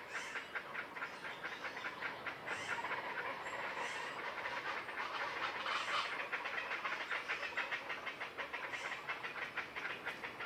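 Common chachalacas calling in chorus: a rapid, rhythmic run of harsh, clattering notes that goes on without a break, with louder calls rising out of it now and then.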